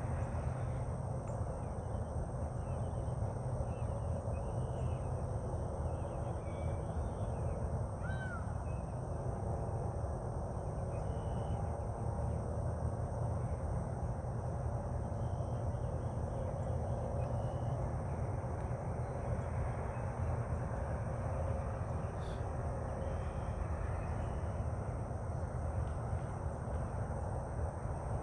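Outdoor ambience: a steady low rumble with scattered faint bird calls, and one short call about eight seconds in.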